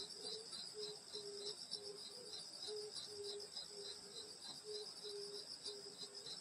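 Night chorus of grass insects such as crickets: a steady high chirring with a chirp that pulses about three times a second. Underneath runs a lower short note that repeats about twice a second.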